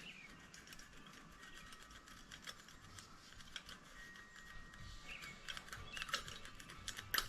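Faint clicks and light scraping of small hand tools and a feeler gauge on a GX200-type engine's valve rocker, as the valve clearance is set to eight thousandths, with a sharper click near the end.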